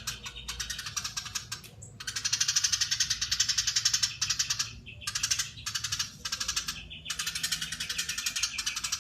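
Eurasian tree sparrow giving a long, fast chattering trill, its notes packed tightly together, with a few brief breaks.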